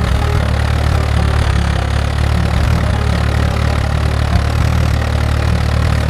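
Tractor engine sound effect running steadily: a deep, even engine drone at a constant speed, with a hiss above it.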